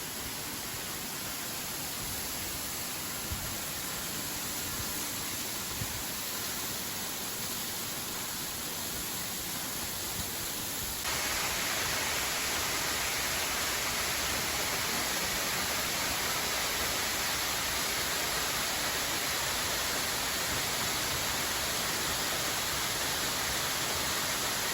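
Steady rushing noise of a waterfall, with no pitch or rhythm; it becomes louder and brighter suddenly about eleven seconds in.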